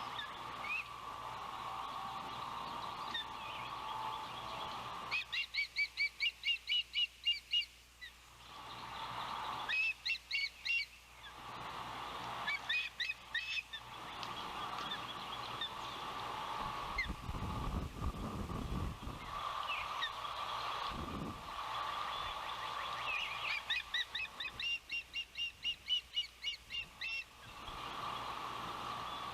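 Ospreys calling in four bouts of rapid, sharp whistled chirps, about four a second, over a steady high hum. Wind buffets the microphone with low rumbles about two-thirds of the way through.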